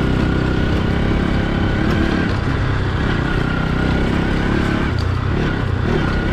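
Motorcycle engine running steadily while riding, with a thin steady whine above the engine note.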